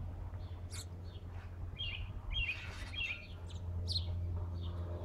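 Backyard birds chirping: a series of short, high chirps, some falling quickly in pitch, over a steady low hum.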